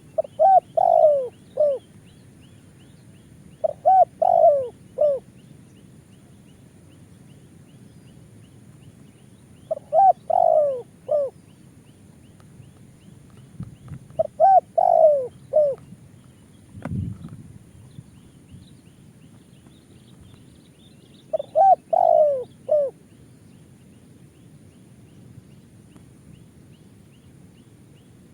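Spotted dove cooing: five separate phrases of several coo notes each, spaced several seconds apart. A single dull thump comes about two thirds of the way through.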